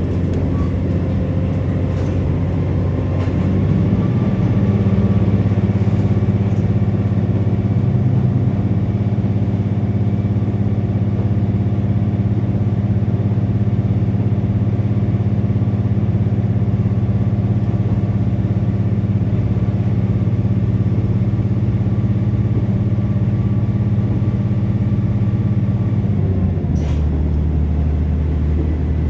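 KiHa 47 diesel railcar's underfloor engine running under power, heard from inside the passenger cabin. About three to four seconds in, the engine note rises and then holds steady with a faint high whine. Near the end it drops back down suddenly.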